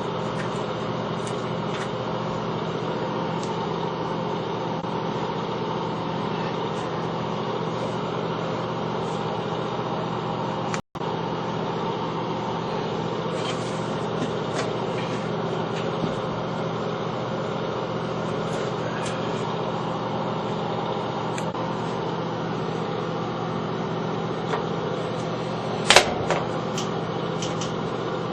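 A steady mechanical hum from a running motor, with faint scattered clicks. It cuts out for an instant near the middle, and a sharp click or knock comes near the end.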